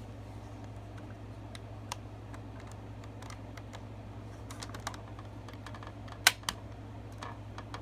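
Scattered light clicks and taps of buttons being pressed and a plastic toy being handled, the two sharpest clicks close together about six seconds in, over a steady low hum.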